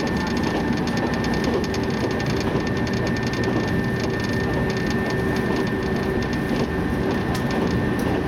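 Running noise inside a 115-series electric train at speed: a steady rumble of wheels on rail, with a constant high whine over it.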